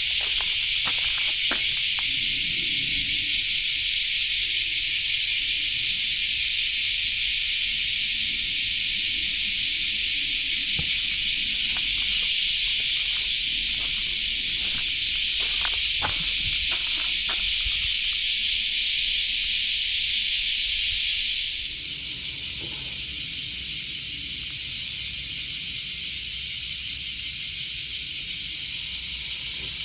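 A dense, steady chorus of insects, a loud high hiss that eases down a step about two-thirds of the way through. Faint footsteps tap underneath.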